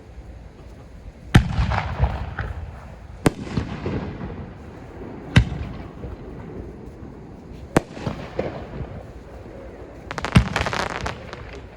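Small aerial firework shells, up to No. 3 size, bursting at close range: five sharp bangs about two seconds apart. The first and last bangs are each followed by about a second of crackling.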